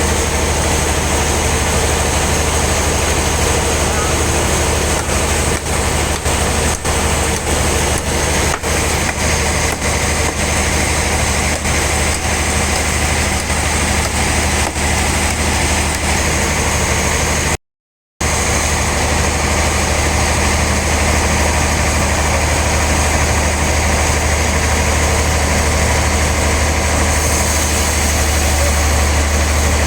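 Sawmill machinery running steadily while a large log is sawn into slabs: an engine-driven saw with a deep, constant drone. The sound cuts out completely for a moment a little past halfway.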